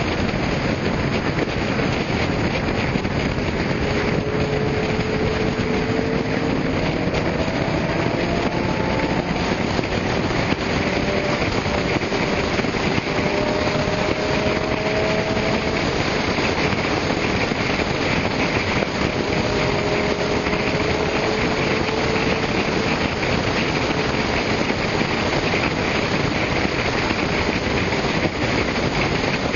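Car engines over a steady rush of road and wind noise. Now and then an engine note rises slowly in pitch as a car accelerates.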